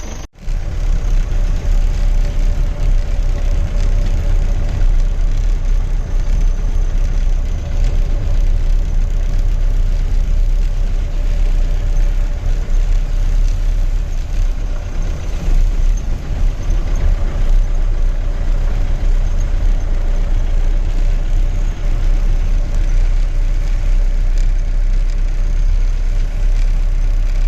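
Safari jeep's engine running steadily, with a heavy low rumble.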